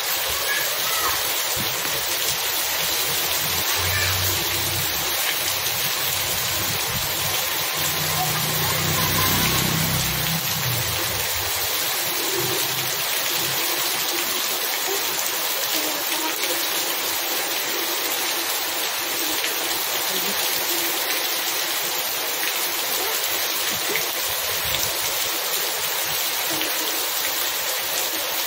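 Heavy rain pouring onto a wet paved road, a dense, steady hiss of falling and splashing water. A low rumble rises and fades during the first third.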